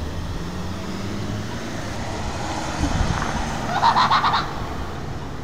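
Vehicle engines idling at traffic lights, a steady low hum. About four seconds in there is a short, loud burst of six or so rapid pulses.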